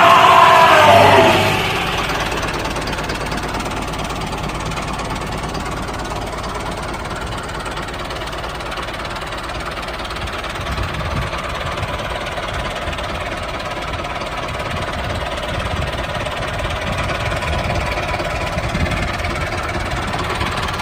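Small motor of a homemade mini tractor running steadily as it plows, an even drone with a faint whine. A loud, wavering pitched sound lasts about the first second and a half.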